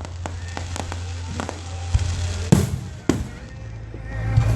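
Aerial fireworks going off: a few small sharp pops in the first second and a half, then two loud booms about two and a half and three seconds in, over a steady low rumble.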